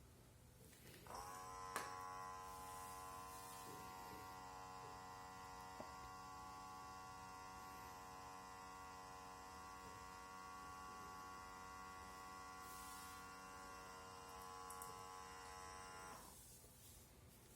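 Small electric vent fan motor switched on, rising briefly in pitch as it spins up, then humming steadily with a clear tone before it stops near the end.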